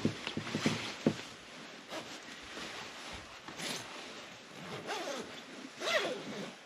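A zipper being pulled, in a couple of quick strokes near the end, with a few short knocks and rustles before them.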